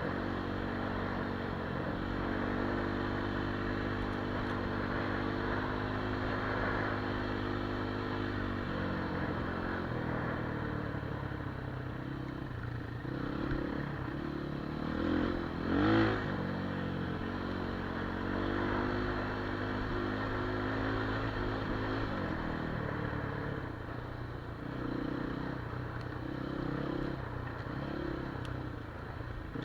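Enduro motorcycle engine running, its pitch stepping up and down as the throttle changes, with a short loud rev about halfway through.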